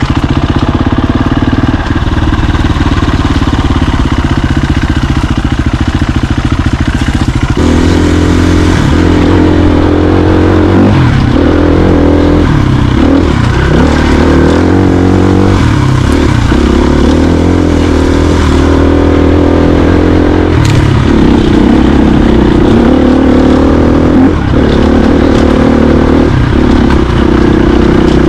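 Dirt bike engine running under way. The note is steady at first, steps up in pitch about seven seconds in, then rises and falls with the throttle, with brief dips in the note several times.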